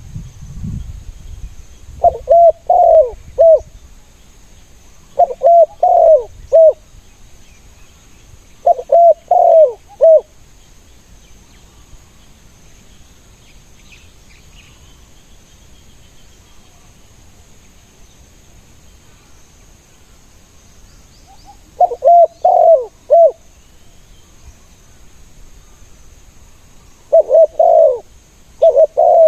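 Spotted dove cooing: five phrases of several short, rounded coos each, with gaps of a few seconds, and a long pause in the middle.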